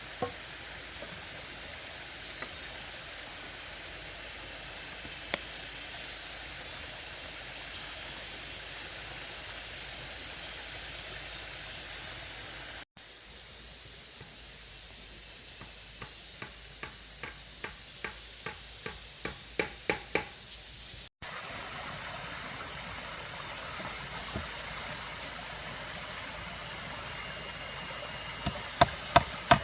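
Hammer blows driving nails into wood: a quick run of about eleven strikes, about two and a half a second and growing louder, in the middle, and a few more near the end, over a steady background hiss.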